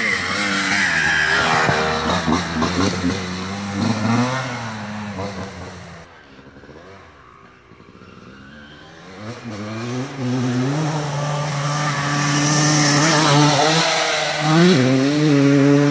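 Dirt bike engine revving up and down as it is ridden; it fades away about six seconds in, then grows louder again as it comes back.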